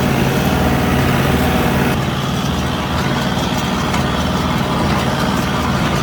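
John Deere 3043D compact tractor's diesel engine running steadily, with a slight drop in its higher-pitched noise about two seconds in.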